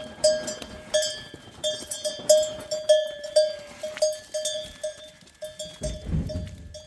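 A metal livestock bell clanking in an uneven rhythm, about two to three strikes a second, each ringing briefly, as an animal wearing it moves. The strikes thin out near the end.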